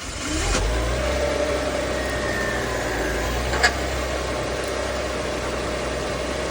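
Audi A4 engine starting: it catches with a brief rise in pitch about half a second in, then settles into a steady idle. A single sharp click comes a little past halfway.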